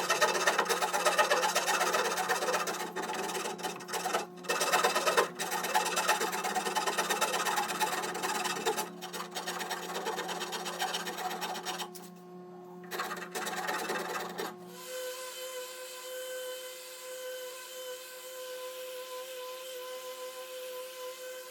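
Hand wood rasp scraping across wood in repeated strokes, with a brief pause about twelve seconds in. The rasping stops about fifteen seconds in, and a quieter steady sound with held tones continues.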